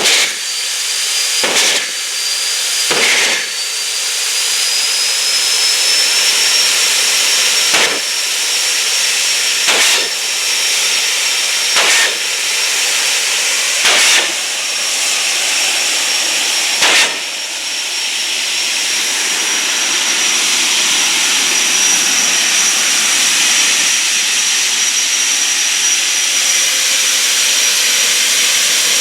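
Jet car's turbine engine running with a loud rushing hiss and a high whine. The whine rises slightly in pitch over the first few seconds, then holds steady. About eight sharp pops break in over the first half, then the sound runs on unbroken.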